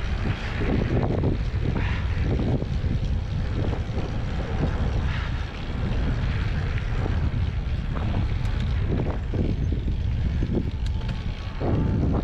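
Wind rushing over the microphone of a moving mountain e-bike, with irregular knocks and rattles as the tyres and suspension go over bumps on a dirt trail.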